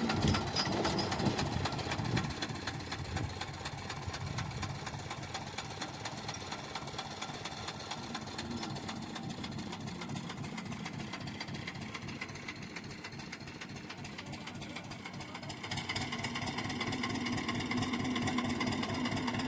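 HMT tractor's diesel engine running with a fast, even knocking beat. It gets louder about three-quarters of the way through as the tractor takes up the pull on a chained car whose wheels are seized.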